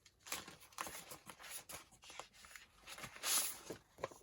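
Sheets of tea-stained paper being handled and shuffled: a run of rustles and light taps, with a louder swish of paper about three seconds in.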